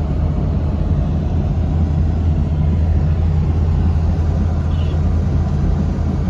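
Steady low drone of a moving tour jeep, engine and road noise.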